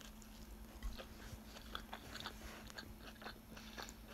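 Faint sounds of a person biting into and chewing a mouthful of chicken burrito, with small mouth clicks scattered throughout.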